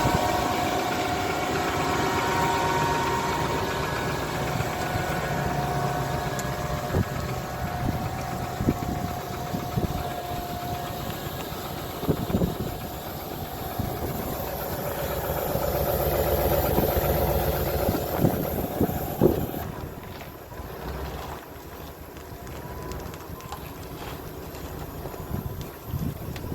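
1999 Chevrolet Suburban's engine running shortly after a cold start while the truck is driven, with scattered knocks and clicks over it. The sound drops noticeably about twenty seconds in.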